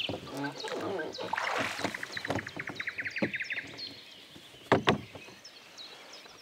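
Songbirds singing around the water, with a fast trill of about ten quick notes a second two to three and a half seconds in. Two sharp knocks close together near the five-second mark are the loudest sounds.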